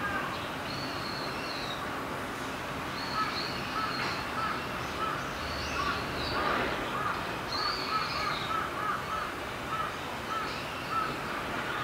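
Birds calling over a steady background noise: a long run of short repeated calls, with a few higher drawn-out notes in between.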